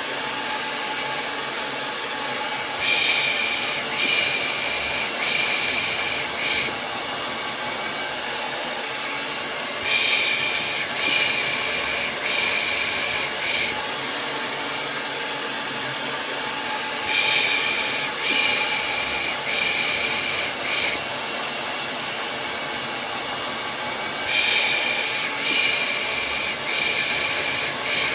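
Hair dryer running steadily. Four times over, a run of four hissing 'pış pış' shushes, about one a second, is laid over it: the rhythmic shushing used to soothe a baby to sleep.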